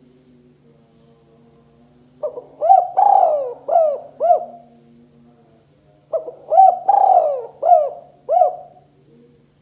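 Spotted dove (tekukur) cooing: two phrases of about five or six rising-and-falling coos each, the second phrase beginning about four seconds after the first and repeating it.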